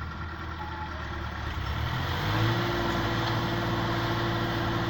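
Heavy vehicle's diesel engine running, then revving up about two seconds in and holding the higher speed, as if taking up a load.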